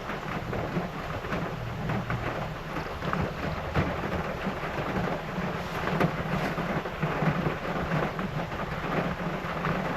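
Heavy rain pouring down, a dense patter of drops over a low, continuous rumble of thunder.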